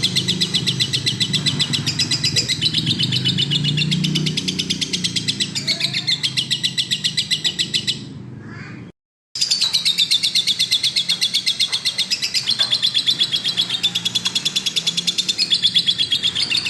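Lovebird singing a long, rapid chattering trill of fast repeated high chirps. The song drops out for a moment about halfway through, then resumes.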